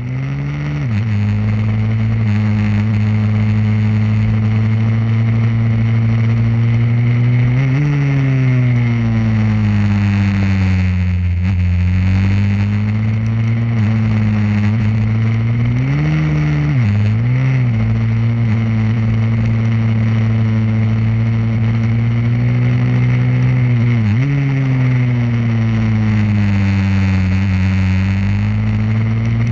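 Pit bike's single-cylinder engine running continuously, its pitch rising and falling every few seconds as the revs change.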